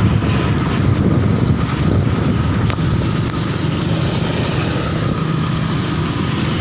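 Strong wind buffeting the microphone of a moving motorcycle, with the motorcycle's engine running underneath.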